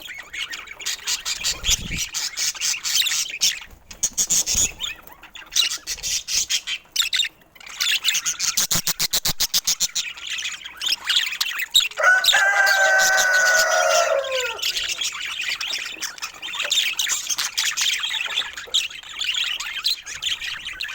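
Pet budgerigars and parrots chattering with rapid, busy chirps and warbles. A fast run of clicks comes about eight seconds in, and a longer held call about twelve seconds in lasts some two seconds and drops in pitch at its end.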